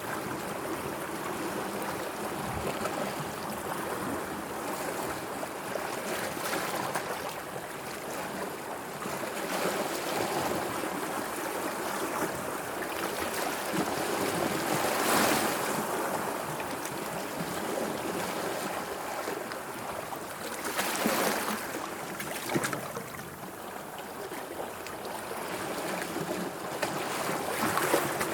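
Sea water washing and lapping steadily, with a louder wave splash about halfway through and another a few seconds later.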